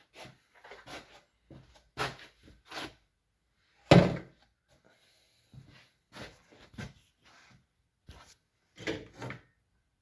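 Engine cover being lifted off and handled: a series of short knocks and clatters, the loudest about four seconds in.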